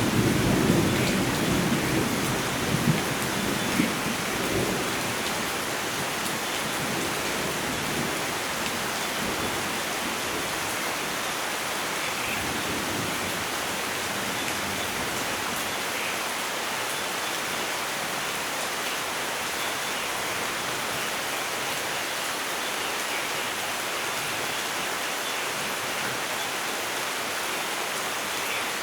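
Thunderstorm: the tail of a thunderclap rumbles and dies away over the first few seconds, then steady heavy rain falls.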